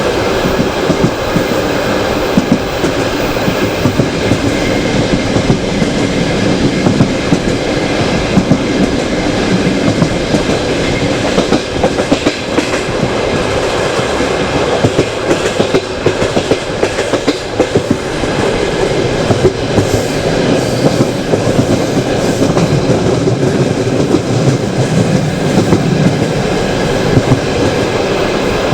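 Passenger train wheels rolling along the track, heard from a carriage window: a steady loud rumble with a continual clickety-clack of wheels over rail joints and frequent sharp knocks.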